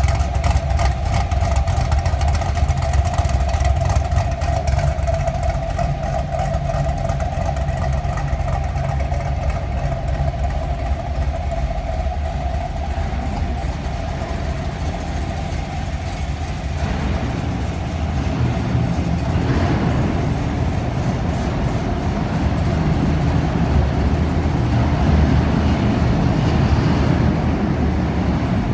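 Camaro SS V8 with an aftermarket camshaft idling with the rough, lopey idle of a big cam, a steady low exhaust rumble.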